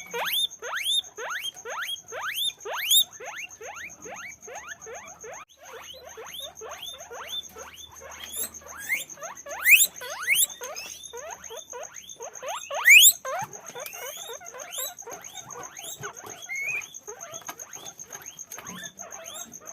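Guinea pigs squeaking: a fast, overlapping run of short rising squeaks, several a second, with two louder, longer squeaks about halfway through.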